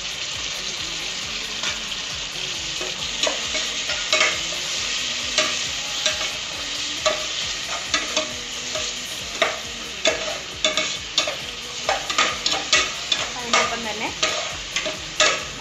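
Onions and ginger-garlic paste sizzling in hot ghee and oil in an aluminium pressure cooker, stirred with a perforated steel spatula. Sharp clicks and scrapes of the spatula against the pot come more and more often in the second half.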